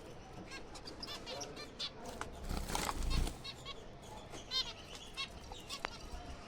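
A colony of zebra finches calling: many short, nasal chirps overlapping one another throughout. A louder rustle comes about two and a half seconds in.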